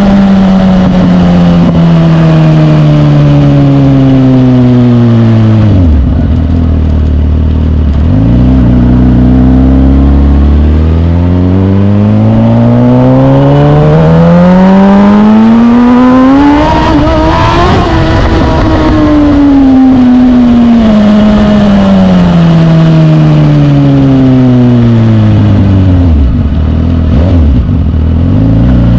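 Suzuki GSX-R1000 K8 inline-four sport-bike engine under way: it slows to a low, even note about six seconds in, then climbs steadily in pitch for about nine seconds as the throttle is rolled on, eases off over the next eight seconds, drops low again near the end and starts to climb once more.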